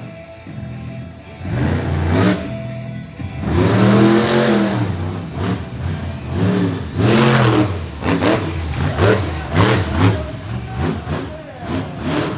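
Monster truck engine revving in repeated surges, each rising and falling in pitch, with longer swells at first and quick short throttle blips in the second half.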